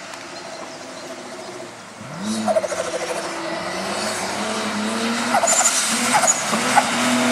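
Rally car engine revving hard as the car approaches, getting steadily louder; its pitch jumps up sharply about two seconds in, then climbs again and again as it is driven through the gears.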